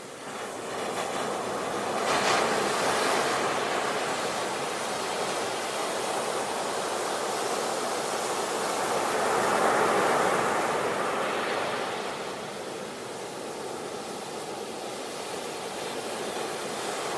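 Sea waves washing onto a shore, the surf swelling about two seconds in and again around ten seconds, easing off in between.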